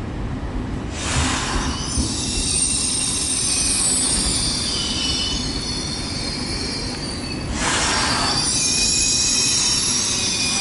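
Trenitalia ETR 600 Frecciargento high-speed train moving slowly along the platform, its wheels squealing with several high, shrill tones that come and go over a low rumble. Two short rushes of hissing come about a second in and again about halfway through.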